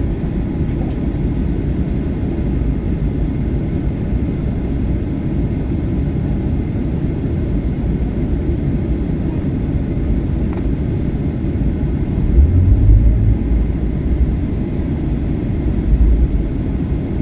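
Cabin noise inside a Batik Air jet airliner after landing: a steady low rumble. Heavier low thumps come about twelve seconds in and again near the end.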